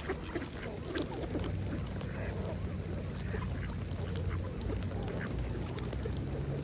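Mallard ducks quacking now and then while feeding, with short sharp clicks and splashes scattered among the calls. A steady low hum runs underneath.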